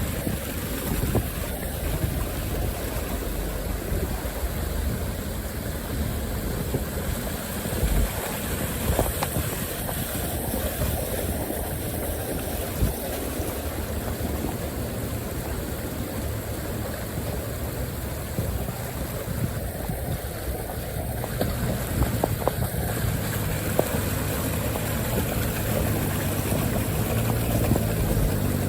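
Can-Am side-by-side driving along a trail: its engine running under a steady rushing noise, with a few small knocks and bumps.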